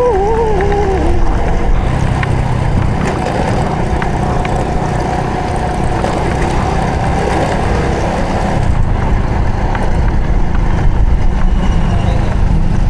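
Honda Supra X 125 FI's single-cylinder four-stroke engine running steadily while the motorcycle is ridden along the road.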